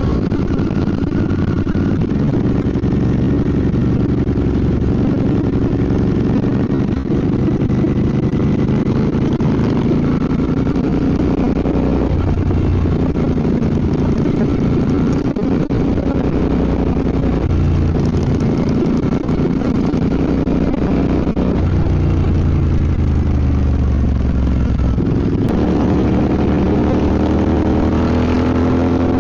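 Royal Enfield Bear 650's 648 cc parallel-twin engine running under way, its pitch stepping and shifting several times with changes of speed and gear, and climbing near the end as it accelerates.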